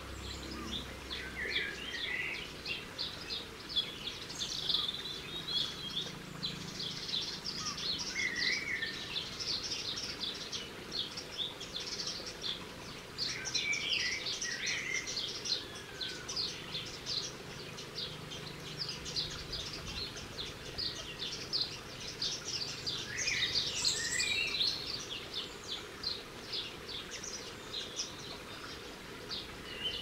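Small garden birds chirping and twittering in a busy, continuous run of short, high calls, with a few lower slurred notes now and then.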